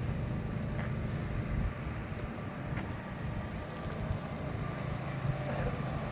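Car engine running with a steady low rumble, with a few faint clicks over it.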